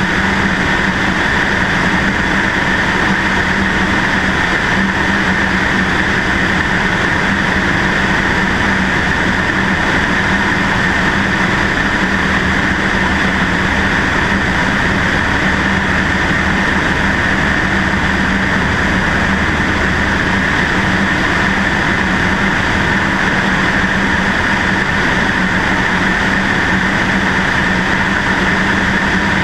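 Cessna 152's four-cylinder Lycoming O-235 engine and propeller running at a steady, unchanging drone, heard from a camera on the left wing with wind rushing over it.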